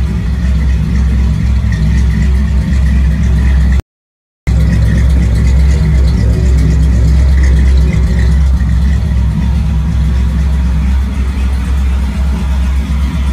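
1969 Buick Riviera's 430 cubic-inch V8 running at a steady idle, its exhaust a deep, even rumble. The sound drops out completely for about half a second some four seconds in.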